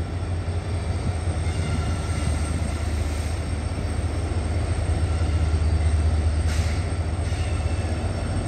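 Locomotive-hauled express train approaching slowly along the station line: a steady low rumble, with two short hisses about three and six and a half seconds in.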